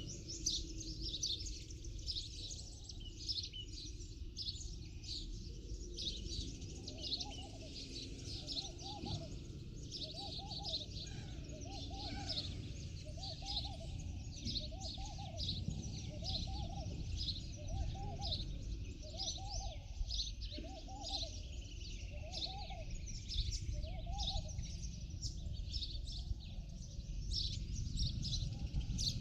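Birds chirping: dense, quick high chirps, with a lower arched call repeated about once a second from about 7 seconds in until a few seconds before the end, over a steady low background rumble.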